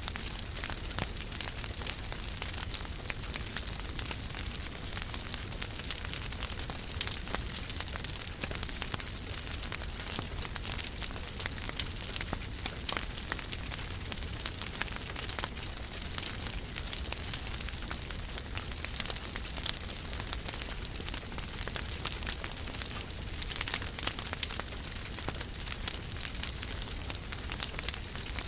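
Wood fire crackling steadily in a fireplace: a dense run of small pops and snaps over a soft hiss, with two louder pops in the first half.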